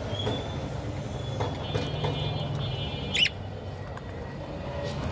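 Cockatiel giving a short, shrill, wavering call about three seconds in, with fainter chirps before it, over a steady low hum.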